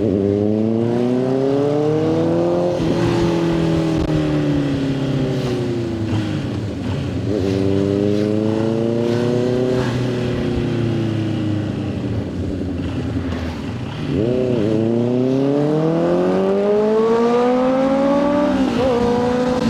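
Motorcycle engine being ridden hard, its pitch climbing under acceleration and dropping sharply at each gear change, then sinking as the throttle eases before climbing again. A quick rev blip comes about two-thirds of the way through.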